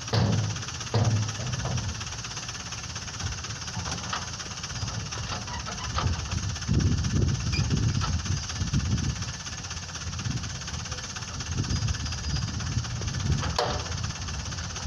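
Dump truck engine running steadily under a hiss of noise, with a couple of sharp knocks in the first second and another shortly before the end.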